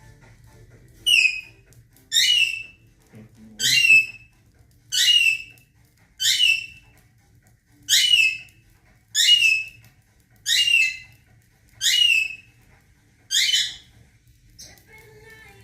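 Alexandrine parrot giving a series of ten loud, shrill calls, each dropping in pitch, about one every 1.3 seconds.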